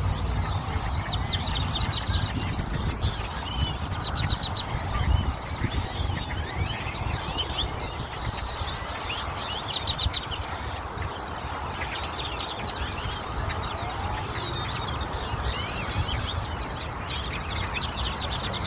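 A flock of birds chirping, with many short calls overlapping continuously, over a steady low rumble.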